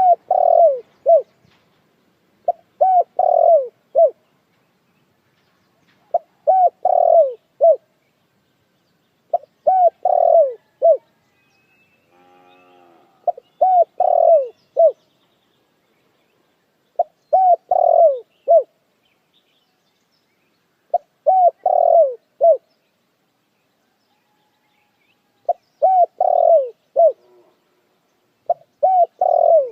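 Puter dekukur dove cooing: a short phrase of three or four falling coos, repeated about every three and a half seconds, nine phrases in all. A fainter, different call comes once between phrases, about twelve seconds in.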